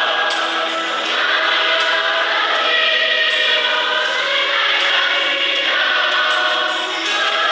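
Church choir singing a gospel hymn in several voices together, sustained and continuous.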